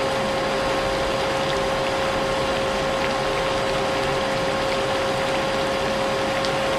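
Vacuum cleaner running steadily, a constant motor whine over a dense hiss, mixed with the patter of rain.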